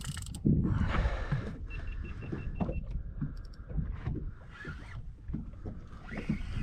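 Fishing reel being cranked under load while fighting a big fish on a jig, a mechanical whirr with uneven knocks and handling noise, and a short run of quick ticks about two seconds in.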